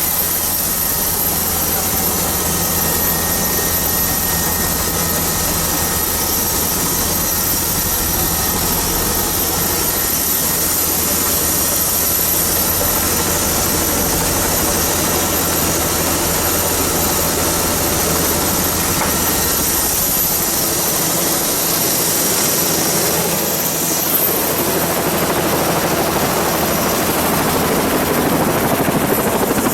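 Helicopter in flight, its engine and rotor running steadily, with a constant high whine over a low hum.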